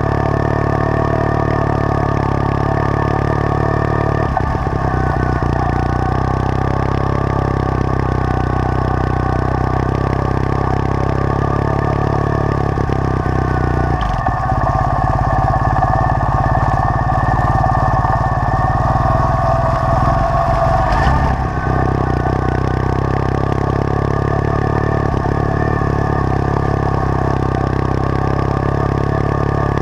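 Triumph Thruxton parallel-twin motorcycle engine running steadily under way at a constant pace. Its note eases off about a third of the way through and picks up again a little past two-thirds in.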